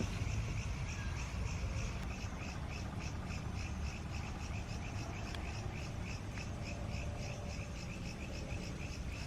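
Steady, rhythmic chirping of crickets, about four chirps a second, over a steady low rumble.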